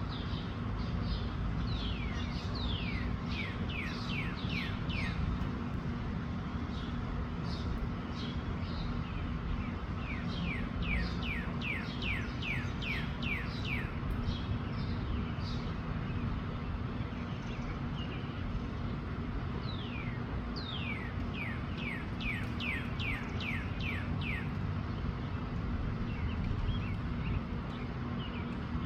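Wind rumbling steadily on the microphone, with a songbird singing three times: each song is a quick run of high notes that slide downward.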